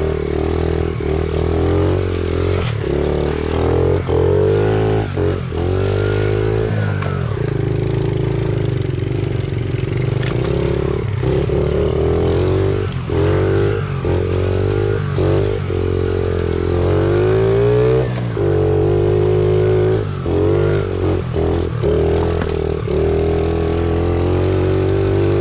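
Small pit bike engine running under way on a trail, its pitch rising and falling as it revs, with many brief dips where the throttle comes off.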